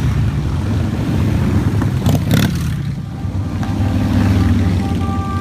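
A procession of motorcycles passing slowly, their exhausts running together as a steady, deep drone, with one short, louder burst about two seconds in.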